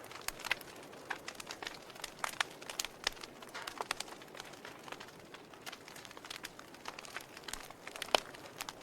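Wood fire burning in a fireplace, crackling with irregular sharp pops and snaps over a soft steady hiss; one louder pop about eight seconds in.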